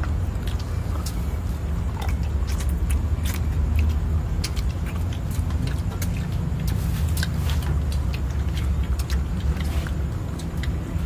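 Close-up chewing and mouth clicks as a man eats meat by hand, over a steady low rumble.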